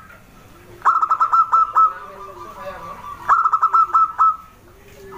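Zebra dove (perkutut) calling: two loud phrases of quick staccato cooing notes about two and a half seconds apart, each phrase ending in a drawn-out note.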